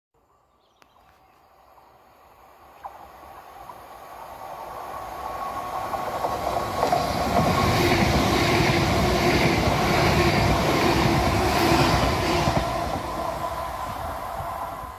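A train passing close by on the rails: it grows steadily louder as it approaches, is loudest for about five seconds as it goes by, then fades away, and cuts off suddenly at the end.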